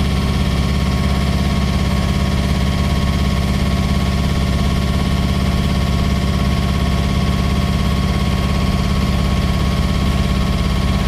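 Nissan 180SX's four-cylinder engine idling steadily, shortly after being started.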